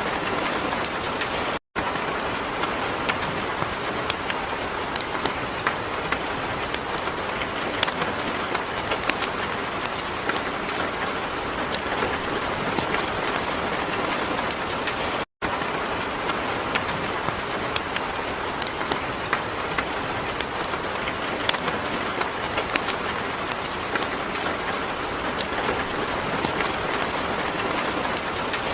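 Heavy rain falling steadily on a surface: a dense even hiss with many sharp individual drop impacts. The sound cuts out completely for an instant twice, about two seconds in and halfway through.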